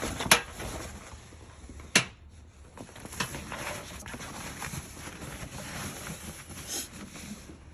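Plastic air filter box parts being handled and pressed into place: two sharp clicks, about a third of a second in and at two seconds, with light rustling and tapping between them.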